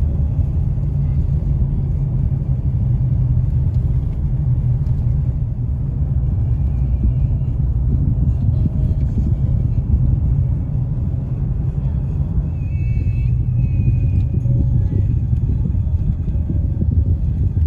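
Steady low rumble of a vehicle on the move, with no breaks or changes in level.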